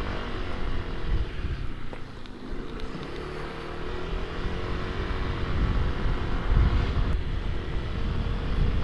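Yamaha NMAX scooter's engine running on the move, heard from inside a full-face helmet through a helmet-mounted microphone, with a low rumble of wind noise underneath. The engine's pitch drops about two seconds in and then climbs steadily as it speeds up; the rider suspects the wind noise comes from an air leak on the helmet's right side.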